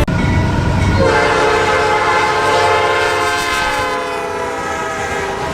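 Diesel freight locomotive's multi-chime air horn sounding one long chord, starting about a second in over the low rumble of the train.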